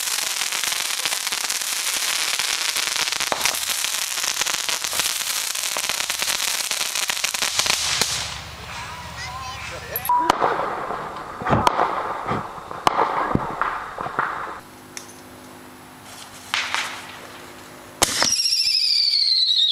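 A ground fountain firework spraying with a steady loud hiss and crackle for about eight seconds, then dying away, leaving a few sharp cracks and voices. Near the end another fountain firework starts suddenly with a loud hiss and a falling whistle.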